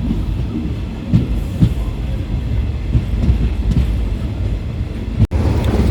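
Passenger train running, with a steady low rumble and irregular clacks of wheels over rail joints. The sound drops out for an instant near the end.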